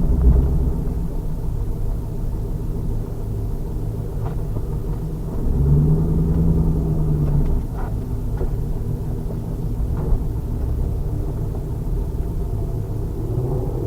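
Exhaust of a 2000 Pontiac Trans Am Firehawk's 5.7-litre LS1 V8 under way, heard through a rumbling, buffeted rear-mounted camera microphone. A steadier engine note holds for about two seconds near the middle.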